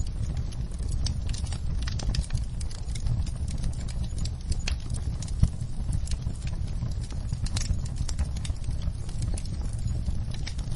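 Wood logs burning in a fireplace: irregular crackles and snaps over a steady low rumble of the flames, with one louder pop about halfway through.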